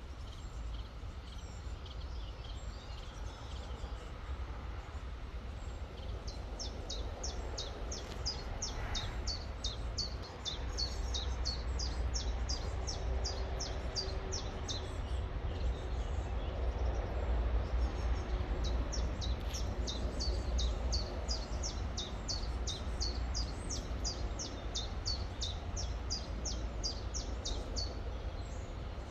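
A songbird singing two long runs of quick, high, down-slurred notes, about three or four a second, over the steady rushing of a river.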